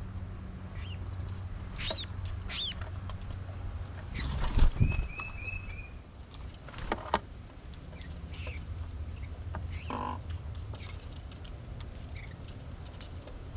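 Songbirds calling: two high notes sliding downward about two seconds in, a short trill near the middle, and scattered sharp chips, over a steady low hum. A thump about four and a half seconds in is the loudest sound.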